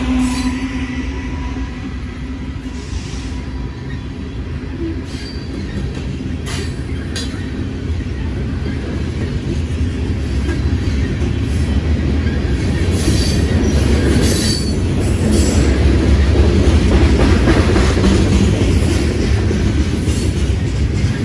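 Covered grain hopper cars of a freight train rolling past close by: a steady heavy rumble of steel wheels on rail that grows louder in the second half, with a few brief squeals and clanks from the wheels.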